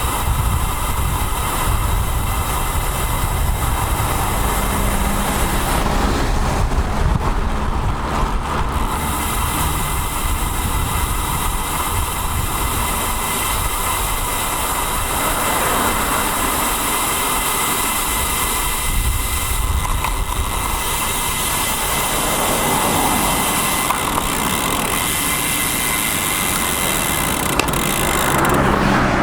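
Riding noise picked up by a bicycle-mounted action camera on a road bike: steady low wind rumble on the microphone with road and traffic noise.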